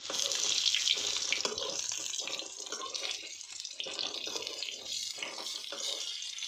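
Boiled baby potatoes sizzling in hot oil in a metal kadhai as they are stirred with a spoon, a steady hiss with small crackles throughout.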